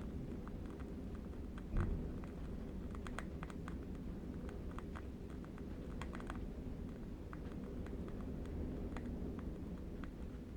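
Steady low rumble of distant wind with faint, irregular crackles and clicks scattered through it, and one stronger soft thump about two seconds in.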